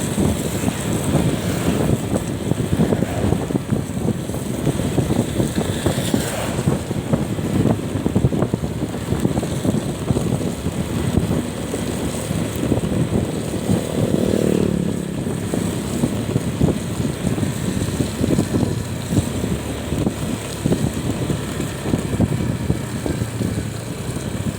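Wind buffeting the microphone over the running engine and road noise of a vehicle on the move. About fourteen seconds in, a short engine tone falls in pitch.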